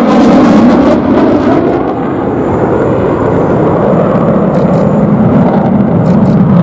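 Twin-engine F-15QA fighter jet flying a display pass, its engines giving a loud, continuous roar that drops slightly in pitch as it goes.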